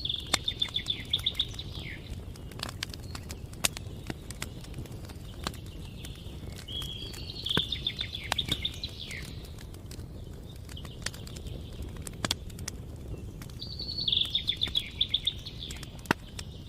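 Campfire crackling, with scattered sharp pops over a steady low rumble. A songbird sings a rapid trilled phrase ending in a falling slur three times, about seven seconds apart.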